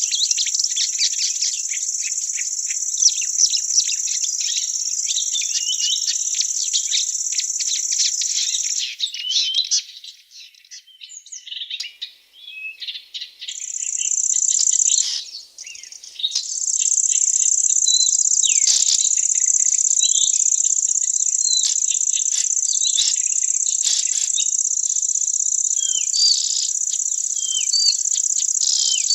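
A continuous high trilling of insects, likely crickets or bush crickets, that drops out about nine seconds in and comes back some seconds later. Short bird chirps are scattered throughout, heard more plainly while the insects are silent.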